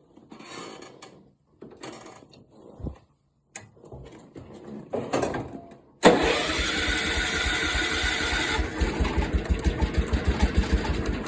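John Deere 212 lawn tractor's single-cylinder Kohler engine on a cold start: a few short bursts of sound, then about six seconds in it catches suddenly and runs with an even pulsing beat.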